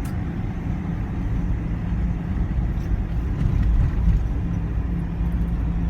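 Bus engine and road noise heard from inside the bus: a steady low drone with a faint held hum.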